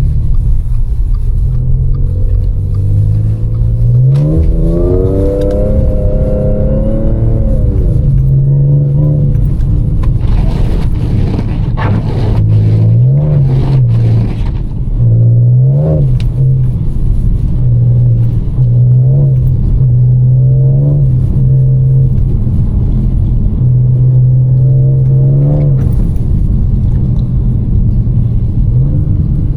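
Audi S5's supercharged 3.0 V6 on the move, its revs climbing and dropping several times with steady cruising stretches between.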